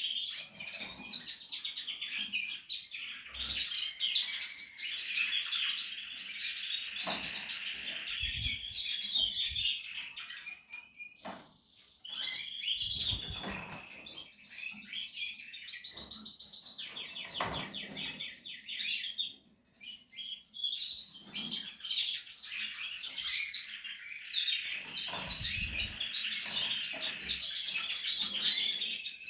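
Portuguese harlequin canaries chirping and twittering almost without pause, with a fast even trill a little past the middle. A few short low thuds sound among the calls.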